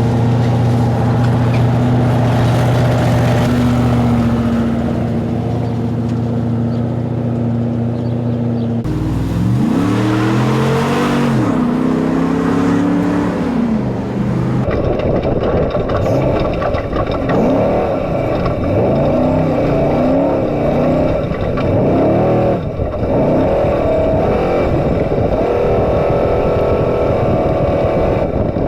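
Trophy truck's engine, first running at a steady high speed, then revving up and down as it shifts gears. From about fifteen seconds in it revs hard again and again through rapid rises and falls. The sound changes abruptly about nine and fifteen seconds in.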